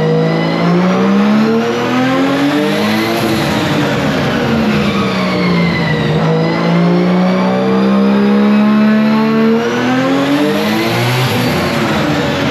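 Car engine revving under load, its pitch climbing for a few seconds, falling back, holding steady, then rising again near the end.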